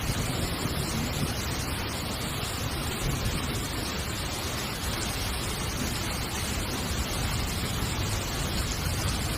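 Heavy rain falling on a tent, a steady, even hiss.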